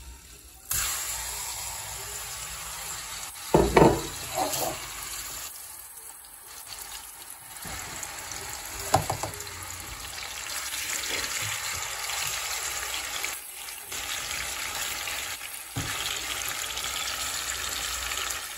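Seasoned chicken pieces frying in a little oil in a metal pot: a steady sizzle that starts abruptly about a second in as the pieces hit the hot oil. A few loud knocks sound around four seconds in and again near nine seconds.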